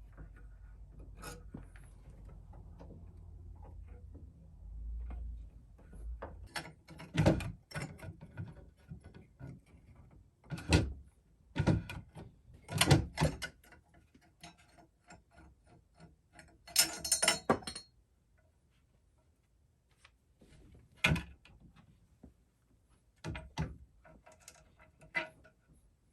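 Irregular knocks, clacks and thuds of wooden furniture being handled, with a short scraping rustle about two-thirds of the way through.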